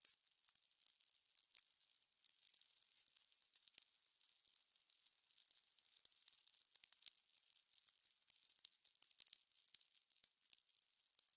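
Fire crackling: a dense, irregular run of small high pops and snaps, with sharper louder pops scattered throughout.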